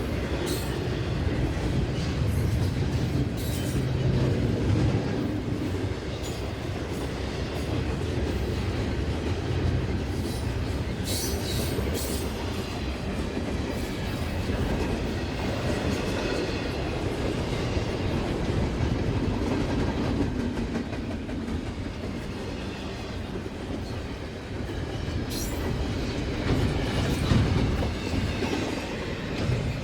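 Northbound intermodal freight train rolling past, a steady rumble with the clatter of its wheels on the rails.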